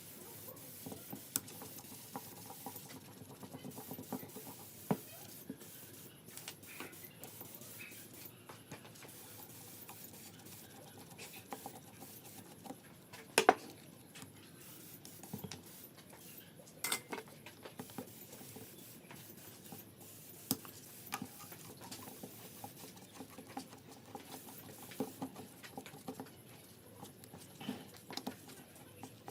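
Hand work on carburetor parts: scattered small clicks, taps and scratching, with one sharper knock about halfway through.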